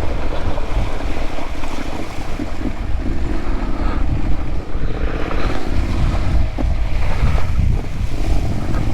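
Motorcycle engine running while riding through water on a flooded gravel road, the wheels splashing, under heavy wind buffeting on the microphone.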